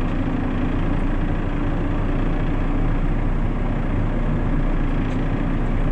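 Backhoe engine running steadily at an even speed, with no scraping or bucket impacts.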